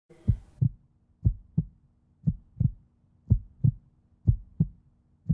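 Heartbeat sound effect: a low double thump, lub-dub, repeating about once a second. A faint steady low hum joins underneath about a second in.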